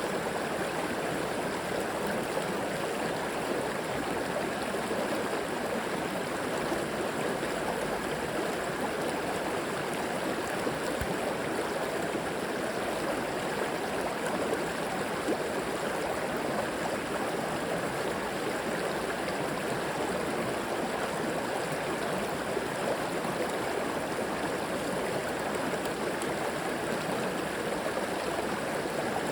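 River water flowing and gurgling steadily over rocks.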